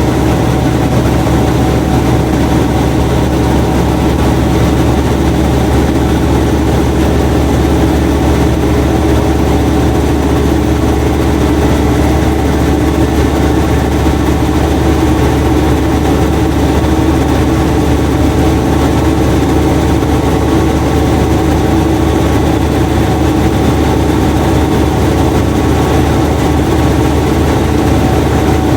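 Washing machine running with a steady, loud mechanical hum.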